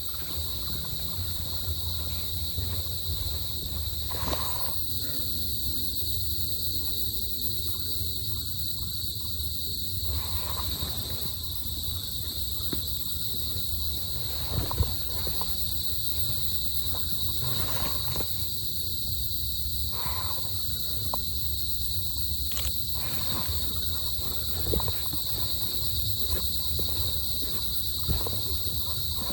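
Steady high-pitched drone of a forest insect chorus, unbroken, over a low rumble, with a few brief clicks scattered through.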